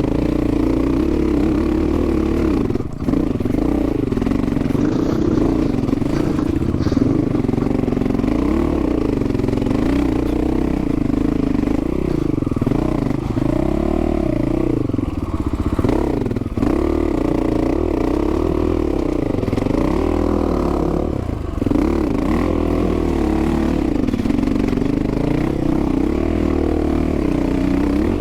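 Dual-sport motorcycle engine running under a rider on a dirt trail, its pitch rising and falling with the throttle, with clattering from the bike over rough ground. The engine note briefly drops off three times, about 3, 16 and 21 seconds in.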